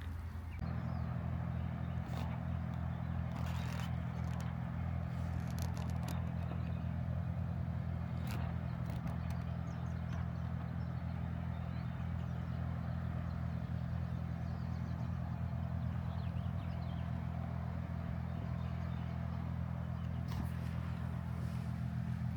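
Steady low mechanical hum of a running motor, with scattered faint clicks and scrapes.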